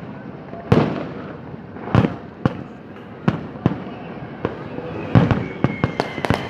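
Aerial fireworks going off: about a dozen sharp bangs at irregular intervals, coming faster near the end, with a thin whistling tone among the last bangs.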